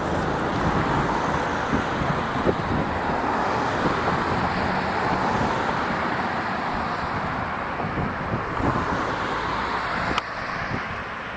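Highway traffic passing over a bridge: a steady rush of tyre and engine noise, with a low engine hum near the start.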